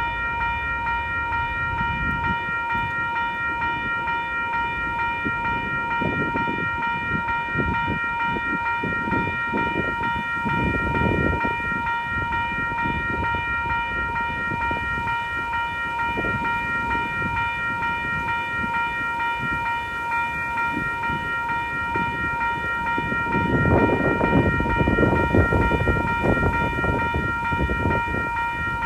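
A train passing, with a steady low rumble and a constant high-pitched ringing tone held throughout. Wind buffets the microphone in gusts, heaviest near the end.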